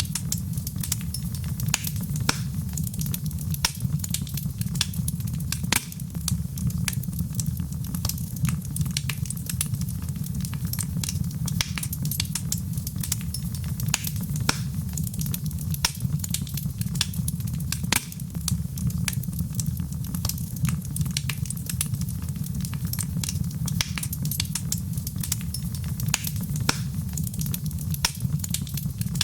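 Fire in a fireplace crackling: many irregular sharp pops and snaps over a steady low rumble of the flames.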